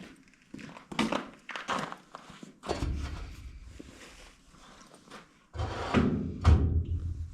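Things being handled and set down during a clean-out: a string of knocks and thunks. There are two stretches of low rumbling, one about three seconds in and a louder one from about five and a half seconds in.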